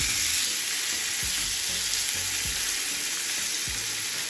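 Salmon pieces sizzling steadily in hot oil in a nonstick frying pan, with a few low thumps about a second apart as they are turned with tongs.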